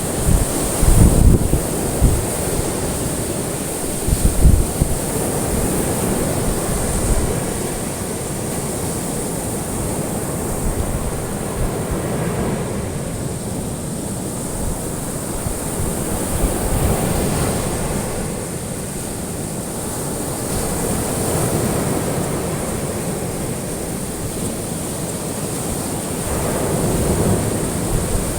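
Ocean waves washing onto a shore, surging and falling back in slow swells every few seconds. Low rumbling buffets come in the first few seconds, and a faint steady high hiss runs underneath.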